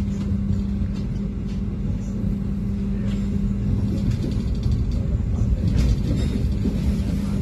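Steady running noise inside a moving passenger train: a low rumble from the wheels on the rails under a steady hum.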